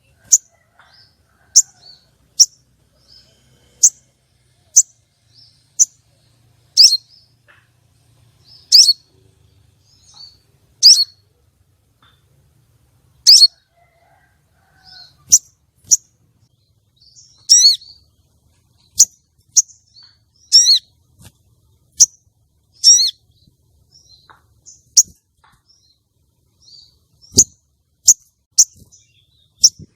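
Female sogon sunbird calling: short, sharp, high chirps about once a second, with a few longer trilled calls in the middle. A single sharp knock comes near the end.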